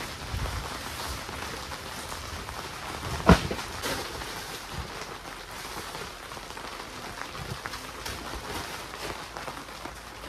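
Rain falling on an inflatable tent, heard from inside. About three seconds in comes a single sharp thump, louder than the rain.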